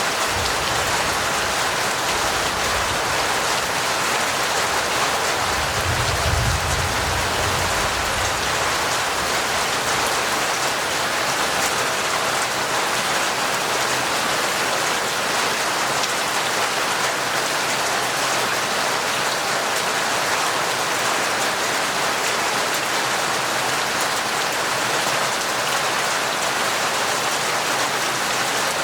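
Steady heavy rain, an even downpour, with a brief low rumble about six seconds in.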